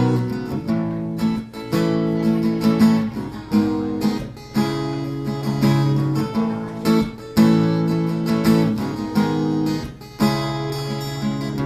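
Acoustic guitar strummed in a steady rhythm, chords ringing between strokes, with no voice.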